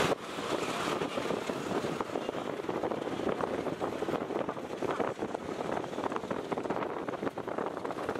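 Passenger train rolling slowly into a station yard, its wheels clattering over the rails and points in a dense run of small knocks, with a steady rushing noise underneath.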